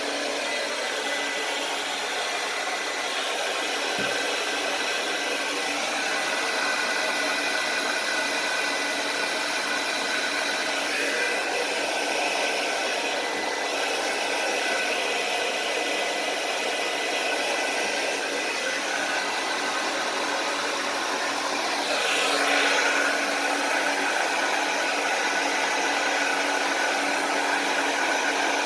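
Handheld hair dryer running steadily, blowing acrylic paint across a canvas, with a motor whine over the rush of air. It gets a little louder for a moment near the end.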